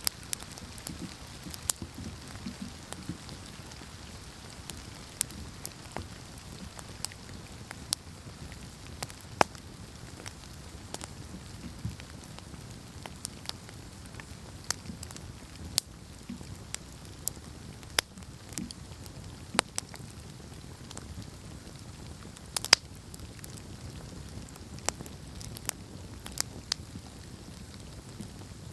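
Campfire burning: wood crackling with irregular sharp pops over a low, steady rush of flames, with one louder pop about two-thirds of the way through.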